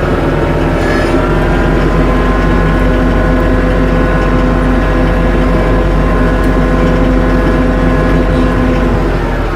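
Tractor engine running at a steady pitch while the tractor works snow with its front bucket.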